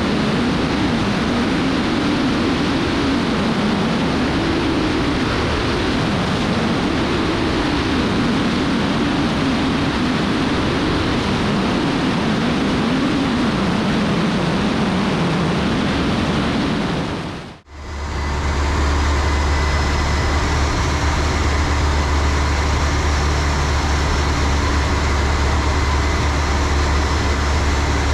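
Steady engine and cabin noise of a small private airplane. It fades out briefly about two-thirds of the way through and returns as a steady noise with a deeper, stronger hum.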